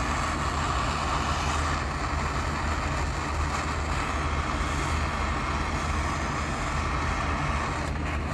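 Metal-melting furnace running with an even rushing noise over a low hum, unchanging throughout.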